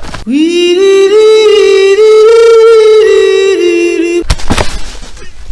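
A long held vocal note, sung or yelled, that scoops up at the start and holds for about four seconds. A sharp crack follows, then a short rushing noise that cuts off abruptly.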